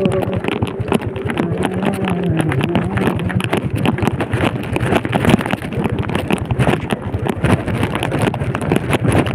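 Yamaha Vega underbone motorcycle's single-cylinder four-stroke engine running under way, with wind buffeting the microphone.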